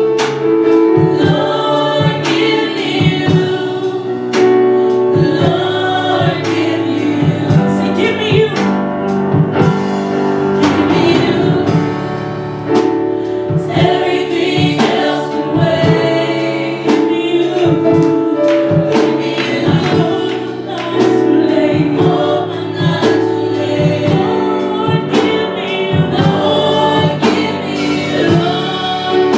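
Gospel vocal group singing a worship song with band accompaniment and regular drum hits.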